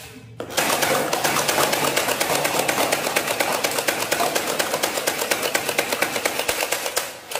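Battery-powered toy machine gun firing on full auto: a fast, even mechanical rattle that starts about half a second in and stops near the end.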